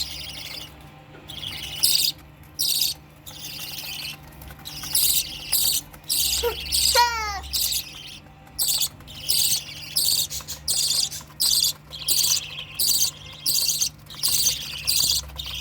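Budgerigars chirping in loud, rapid bursts that repeat about once or twice a second, with a short falling whistled call about seven seconds in and a steady low hum underneath.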